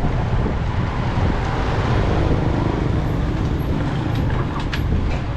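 Motorcycle engine running steadily along with street traffic noise, a continuous low rumble.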